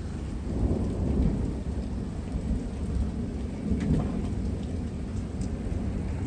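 Thunder rumbling over steady rain, swelling louder about a second in and again around four seconds in.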